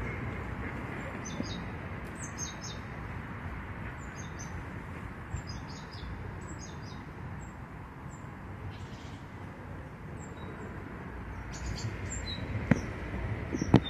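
Small birds chirping repeatedly in short, high calls over a steady low background hum, with a couple of sharp clicks near the end.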